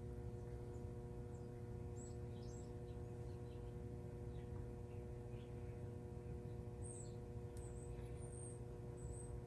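Quiet room tone: a steady low electrical hum, with a few faint, short high-pitched chirps scattered through it.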